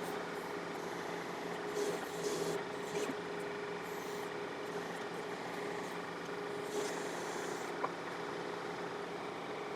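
Diesel engine of a John Deere 4052R compact tractor running steadily, with a few short bursts of hiss or scraping about two, three and seven seconds in and a single sharp click about eight seconds in.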